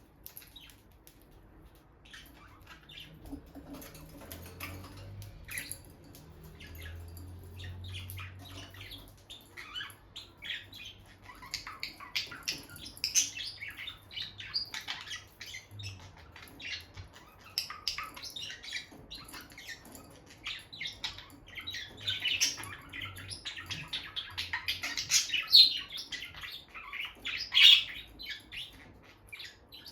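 Peach-faced lovebirds chirping: many short, high chirps, sparse at first and growing busier and louder through the second half.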